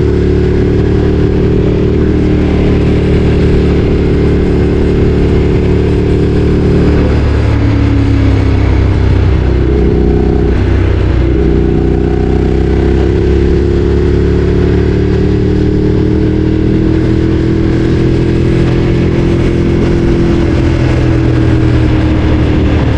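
Ducati Streetfighter 848's L-twin engine running steadily under way, its pitch dipping briefly twice around the middle, then holding and sagging slightly.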